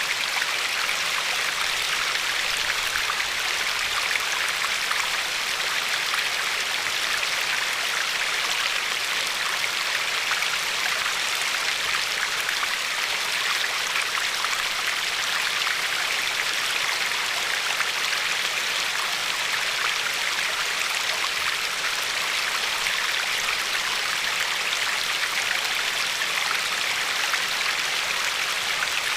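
River water flowing steadily over and along a pebbly shore, a constant rushing hiss with fine splashing.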